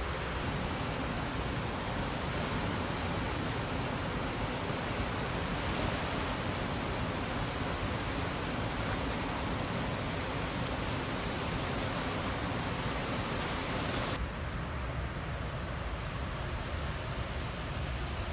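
Water pouring through Remmel Dam's spillway gates in a major controlled release, a steady, dense rushing sound. The high hiss drops away abruptly about fourteen seconds in while the rushing continues.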